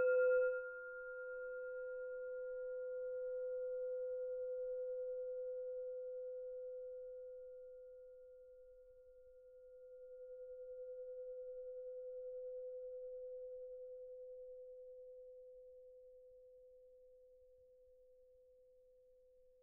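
A single ringing tone left from a strike, like a bell or singing bowl, holding one pitch as it slowly fades. It dies away about halfway, swells back up, then fades out well before the end.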